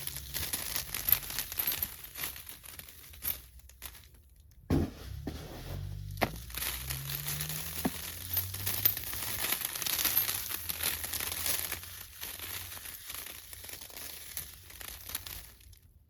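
Dense crunching and crackling of dry debris, with a short lull about four seconds in, dying away near the end.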